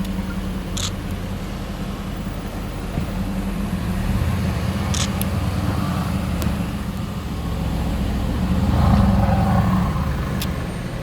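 Supercar engines running with a steady low rumble that swells twice in loudness, the second and loudest rise about nine seconds in. There are a few short, sharp clicks at about one, five and ten seconds.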